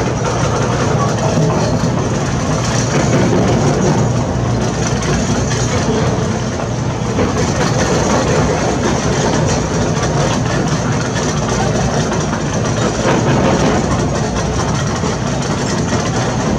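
Diesel engine of heavy construction machinery running steadily with a constant low hum.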